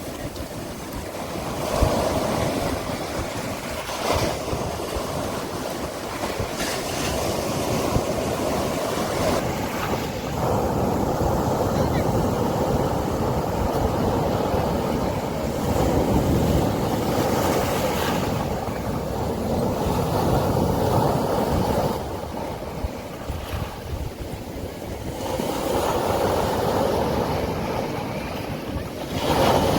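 Sea surf breaking and washing onto a beach, swelling and ebbing every few seconds.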